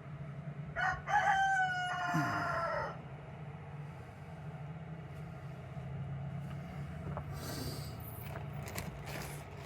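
A rooster crowing once, about a second in: a short opening note, then a long held note that falls away at the end. A steady low hum runs underneath.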